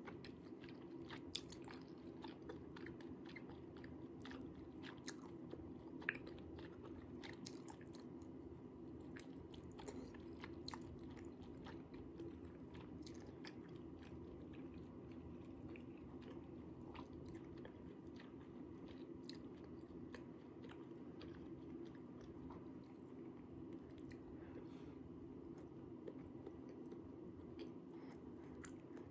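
A person chewing and biting tteokbokki rice cakes close to the microphone, with many small, sharp mouth clicks scattered throughout. A steady low hum runs underneath.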